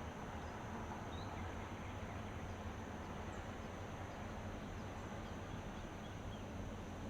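Steady outdoor ambience: an even hiss with a constant high insect drone and a faint low hum, and a few brief faint bird chirps, the first about a second in.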